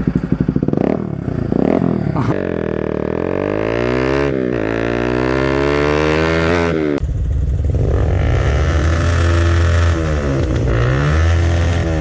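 Motorcycle engine through an Akrapovic aftermarket exhaust, revving: a few quick throttle blips, then one long climb in pitch, a sudden cut, and revs rising and falling in swells.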